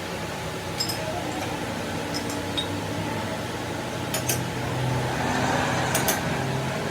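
Workshop machinery running steadily with a low hum, and a few light metallic clinks, a pair about four seconds in and another pair about six seconds in.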